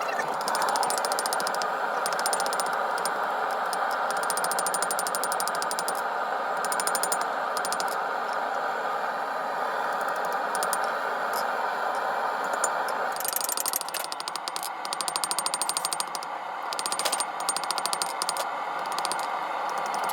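Blacksmith's hammer striking a steel bar on an anvil in quick repeated blows, squaring a section of round bar, over a steady rushing noise that drops away about thirteen seconds in.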